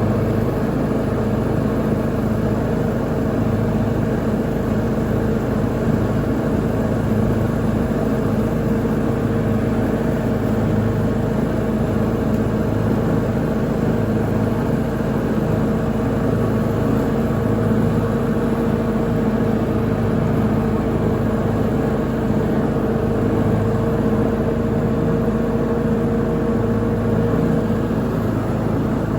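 Lawn mower engine running at a steady speed, an even drone with no change in pitch.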